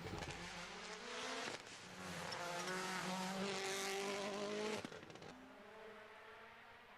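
Rally car engine running hard at high revs, with road and tyre noise; it drops away to a fainter engine sound about five seconds in.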